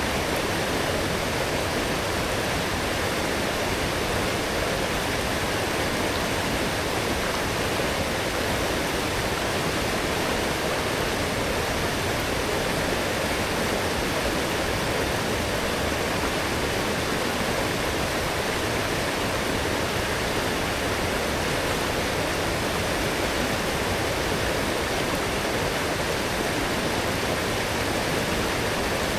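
Forest stream running full after heavy rain, a strong, steady rush of flowing water.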